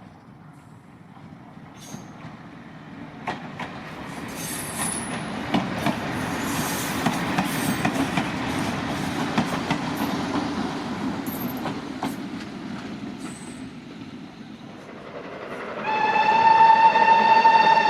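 A train rolling past on the rails, its running noise building and fading, with clicks and brief high wheel squeals. About sixteen seconds in, a locomotive whistle starts: one loud steady note.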